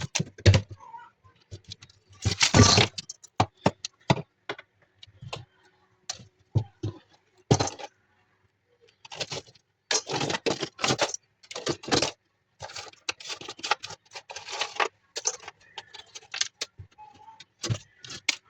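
Irregular clattering, knocking and scraping of hard objects in a fridge being cleared of built-up ice, coming in uneven clusters of sharp knocks and longer scrapes.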